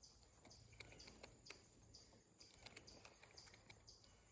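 Near silence, with faint insects chirping in short, evenly repeated pulses and a few scattered faint ticks.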